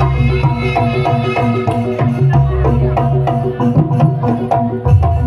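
Javanese jaranan music: a gamelan-style ensemble of drums and mallet-struck pitched percussion playing a quick, steady repeating pattern over sustained low tones.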